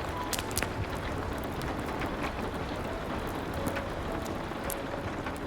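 Steady rain with scattered sharp crackles and pops of a wood fire burning in a fireplace.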